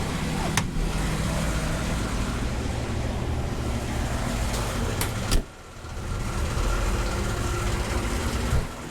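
A car engine idling steadily, with a couple of sharp clicks.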